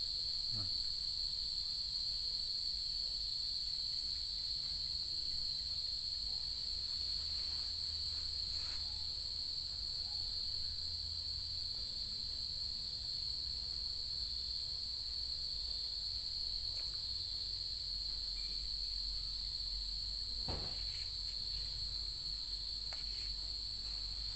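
Crickets chirring in a steady, unbroken high-pitched chorus, with a faint low hum beneath and a single brief click near the end.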